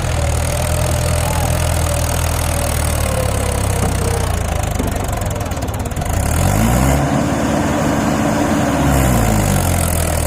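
Tractor diesel engine running steadily at low revs. About six seconds in it revs up, holds higher for a few seconds, then eases back down near the end.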